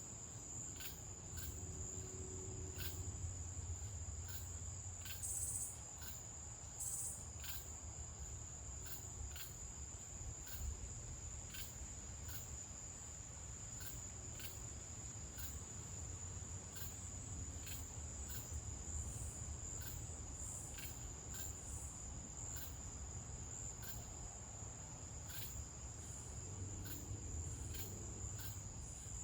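Night insects, crickets, trilling in a steady high-pitched chorus, with sharper separate chirps about once a second over a low background rumble.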